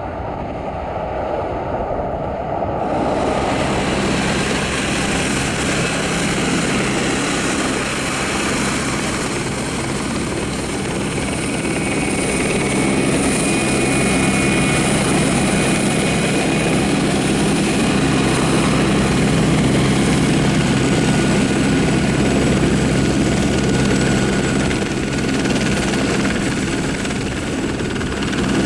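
Aircraft turbine engine running steadily: a low drone with a thin high whine on top. It grows louder about three seconds in and then holds.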